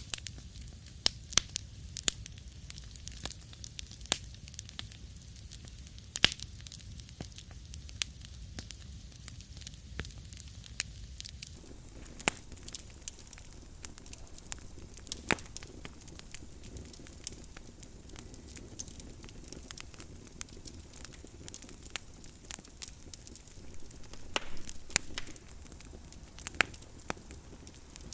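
Wood fire crackling in a fireplace, with sharp irregular pops and snaps over a low hiss; the crackle grows denser a little before halfway.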